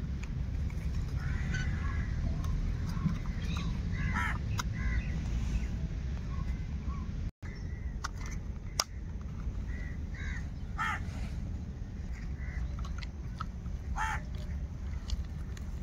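Short bird calls, one every few seconds, over a steady low rumble. The sound drops out for a moment about halfway through.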